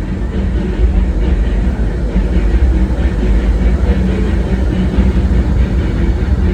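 Disneyland Railroad narrow-gauge steam train rolling along the track, heard from aboard: a steady, loud low rumble with no break.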